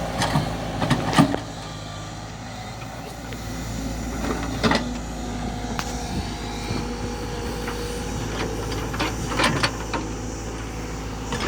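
JCB backhoe loader's diesel engine running steadily, with several sharp knocks, a cluster near the start, one midway and a few more near the end.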